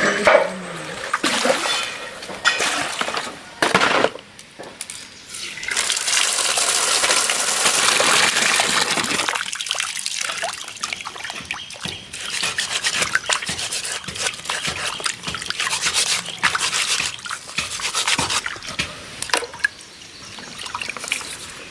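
Water splashing and trickling as freshwater mussels are rinsed, with their shells clicking against each other. The running water is loudest from about six to nine seconds in.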